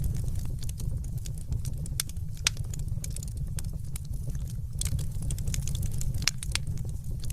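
Fire crackling in a fireplace: irregular sharp pops and snaps over a steady low rumble, with one louder pop about two and a half seconds in.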